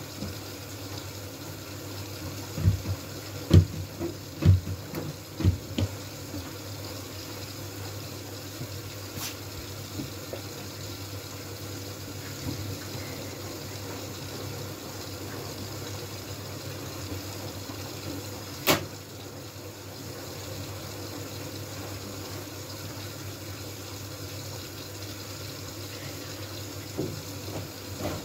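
Miele W433S washing machine mid-cycle with water running in steadily. There are five or six heavy thumps about three to six seconds in, and two sharp clicks later.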